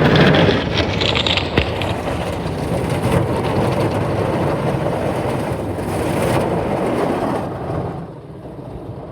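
Ryko soft-gloss MAXX 5 automatic car wash working over the car, its spinning brushes and water spray making a loud, steady wash noise that eases off about eight seconds in.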